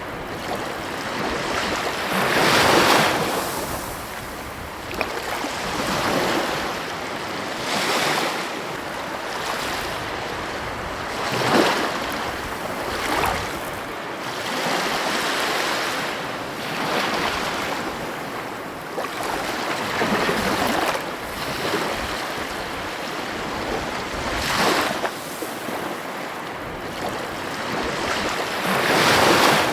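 Ocean surf breaking on a beach: a continuous rushing wash that swells every few seconds as each wave breaks and then recedes.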